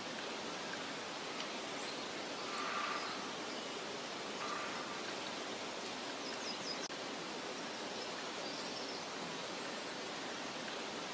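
Meadow ambience: a steady soft hiss, with a few faint short bird calls about two and a half seconds in, at four and a half seconds, and again a little past six seconds.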